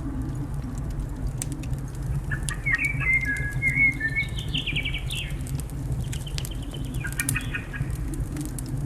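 Small birds chirping in short trilled phrases, twice, over a crackling fire with scattered sharp pops and a steady low rumble underneath.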